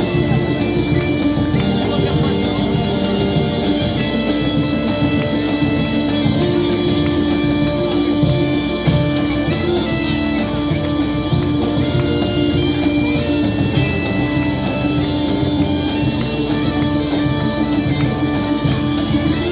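Live folk music played by a band: a steady held drone under a shifting melody line, with drums beating steadily underneath.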